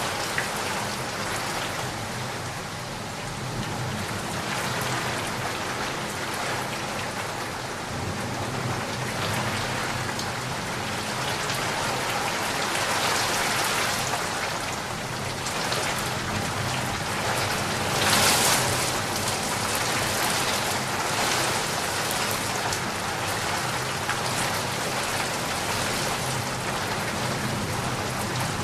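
Steady rain falling, an even hiss of drops on a surface, with a brief louder swell about eighteen seconds in.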